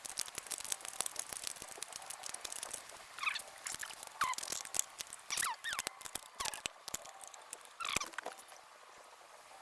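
Irregular small clicks and taps of hand tools and parts being handled, with several short squeaks that fall in pitch about every second.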